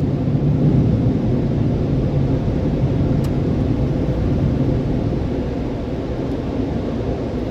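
Car driving off, with a steady low rumble of engine and road noise heard from inside the cabin.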